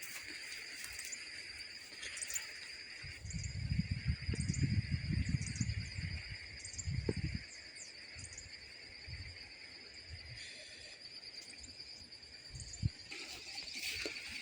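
Insects trilling steadily at a high pitch, with short high bird chirps scattered over it. A low rumbling noise from about three to seven seconds in is the loudest part.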